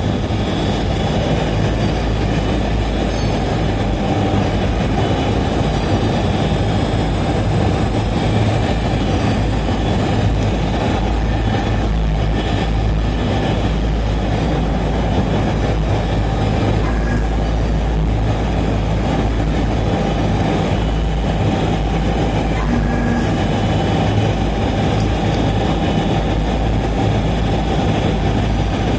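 Gas-fired aluminium melting furnace running: the burner and its blower make a steady, loud rumbling noise over a low hum, unchanging throughout.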